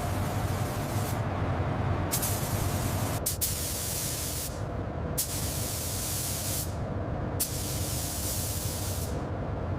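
A spray nozzle hissing in repeated bursts, each about a second or a second and a half long with short gaps between, over a steady low machine hum.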